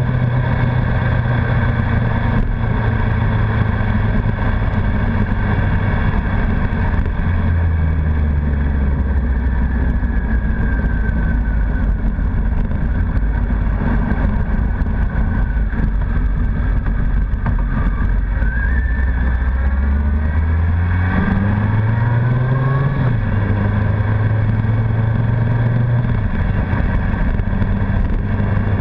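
Honda CBR1100XX Blackbird's inline-four engine running on the move over steady road and wind noise. Its note drops to a lower pitch about a quarter of the way in, then climbs briefly about two-thirds of the way through before settling again.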